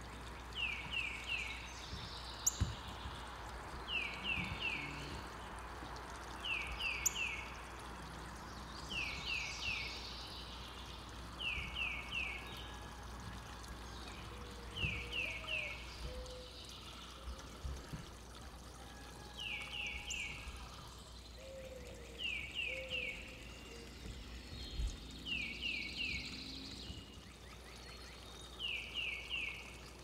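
A bird singing a short phrase of three quick down-slurred notes, repeated every few seconds over a steady background hiss.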